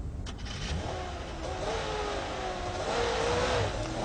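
A car engine revving as the car pulls away, its pitch wavering up and down, with a short click just at the start.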